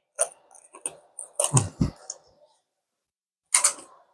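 Close-up crunching of a Mountain House freeze-dried mint chocolate chip ice cream sandwich being bitten and chewed: scattered short crackles, with the strongest crunches about a second and a half in and another cluster near the end.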